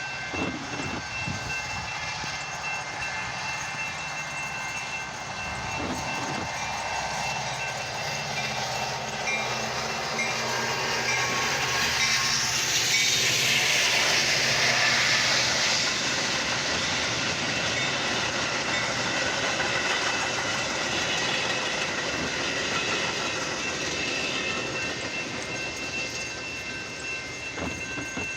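Metra commuter train rolling past, with a steady rumble and clickety-clack of wheels over rail joints and a few thin high tones held throughout. It grows loudest about halfway through, then slowly fades.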